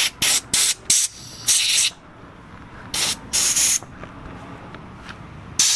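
Short hissing bursts of aerosol spray, most likely carburetor cleaner, on carburetor parts: four quick squirts, a longer one, then two more about three seconds in.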